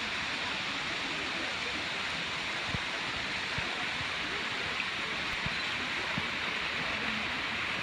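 Waterfall pouring into a river, a steady rushing of water with a few faint low thumps.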